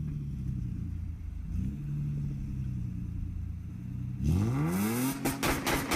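Car engine idling with a low, steady note, then revved hard about four seconds in, the pitch sweeping quickly upward. A string of sharp pops follows near the end.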